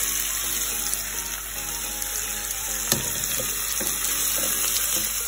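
Chicken leg pieces sizzling steadily as they fry in butter and oil in a flat tawa pan on medium heat, with a sharp click about three seconds in.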